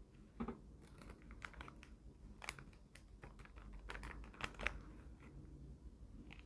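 A scattering of small, sharp clicks and taps at an irregular pace, thickest in the middle.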